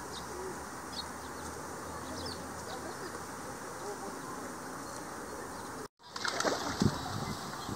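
Outdoor pond-side ambience with small birds chirping now and then. After an abrupt cut about six seconds in, there are a couple of louder low calls.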